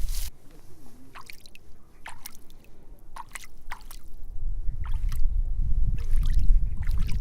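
Water dripping and trickling in scattered, irregular drops after a hissing sound cuts off just at the start. A low rumble builds up from about halfway through.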